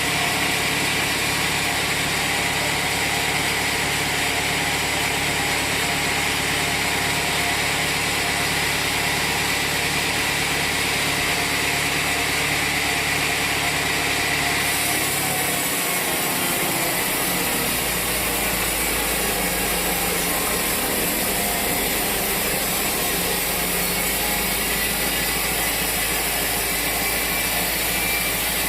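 Sawmill machinery running steadily, an engine-driven saw with a constant drone and a high hiss. About halfway through, the low hum drops in pitch and the hiss changes, as the load on the machine shifts.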